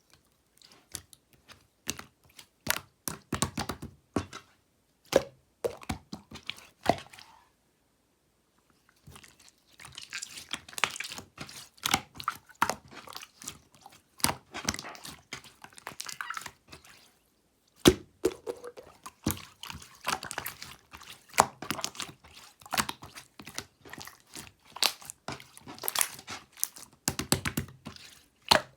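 Slime being squeezed and poked by hand, giving dense runs of small crackling pops and squishes, with a pause of about a second and a half around eight seconds in.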